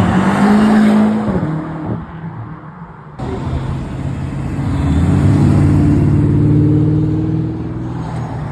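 Car engines revving and accelerating away: one engine's note climbs and holds, then drops off about two seconds in; after an abrupt change, another car's engine rises steadily and fades near the end.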